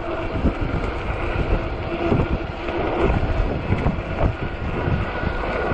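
Strong headwind buffeting the microphone on a moving fat-tire e-bike, a dense low rumble, with a faint steady whine underneath.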